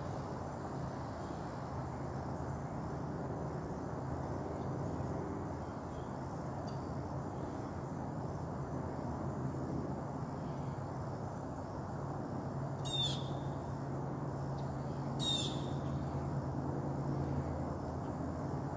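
Two short, high bird calls, each sweeping downward, about two seconds apart in the latter half, over a steady low hum and rushing background noise.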